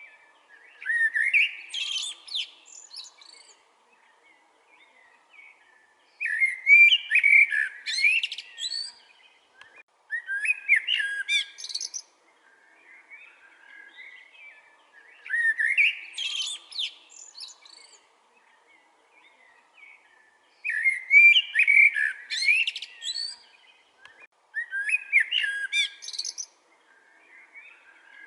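Common blackbird singing: about six fluty, warbling song phrases a few seconds apart, each ending in a higher, twittering flourish.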